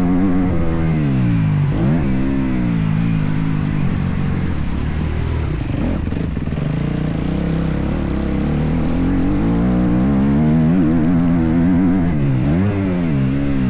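Motocross bike engine revving hard and falling off with the throttle, its pitch swinging up and down. It drops sharply and climbs again about two seconds in and again near the end.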